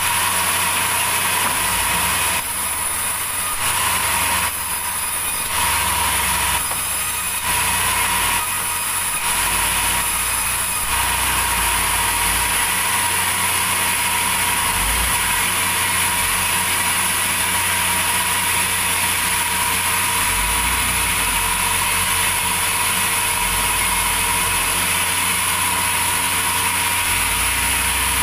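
Sawmill machinery running steadily with a loud hiss and a high, steady whine. The sound swells and eases several times in the first ten seconds, then holds even.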